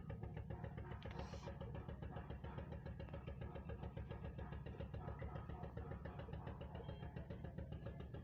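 An engine idling steadily, a rapid, even low pulsing.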